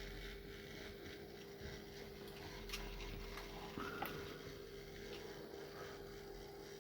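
Faint running of an N gauge model DMU train: a steady low hum and whine, with a few light clicks of wheels on the track about three and four seconds in.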